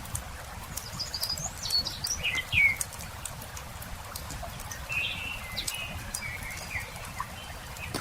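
Small birds chirping and calling in short bursts of quick notes, over the light, scattered crackling of a wood campfire.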